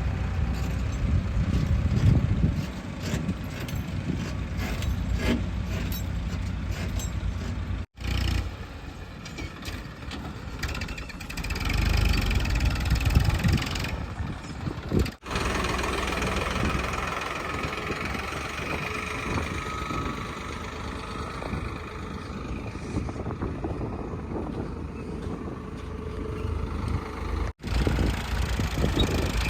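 Heavy diesel engines of earthmoving machinery and trucks running under load, in several cut-together sections with brief dropouts between them.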